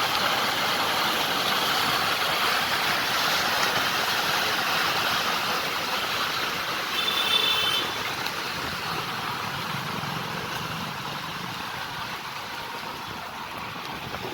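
Motor vehicle running with a steady rushing noise that slowly fades over the second half. A brief high tone sounds about seven seconds in.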